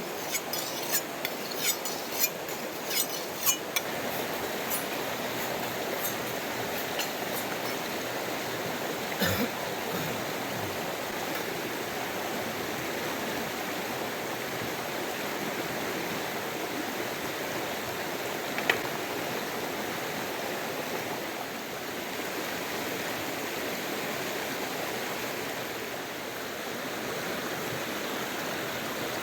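River water rushing steadily. A quick run of sharp clicks sounds in the first few seconds, one louder knock about nine seconds in, and a single click a little later.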